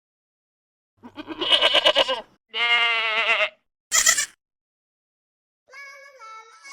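Goats bleating: three separate bleats, the first two long and wavering, the third short and higher. A quiet tune begins near the end.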